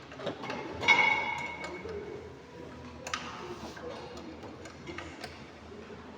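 A ringing metallic clink about a second in, then scattered light clicks and ticks of metal tools and parts being handled during brake work.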